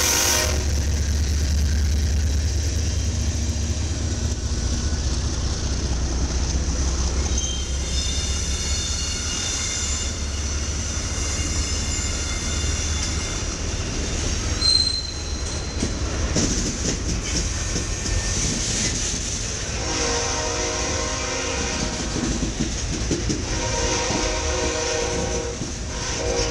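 Freight train passing close by: the BNSF diesel-electric locomotives' engines rumble deeply as they go by, then the freight cars roll past with wheel clatter and high wheel squeal, with one sharp squeal about halfway through. Near the end the train horn sounds in two long blasts.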